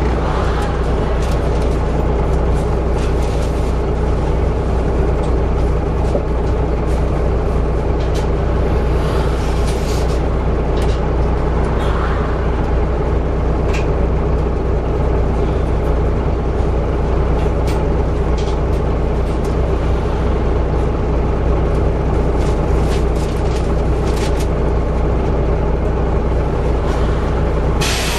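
Volvo B7TL double-decker bus on the move, its engine and Allison automatic driveline running with a steady drone. Sharp clicks and rattles come now and then.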